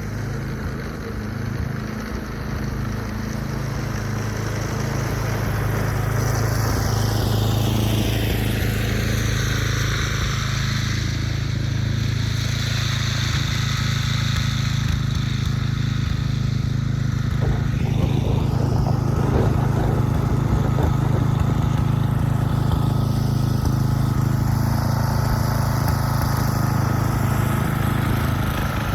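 An engine running steadily, growing louder over the first several seconds and then holding even.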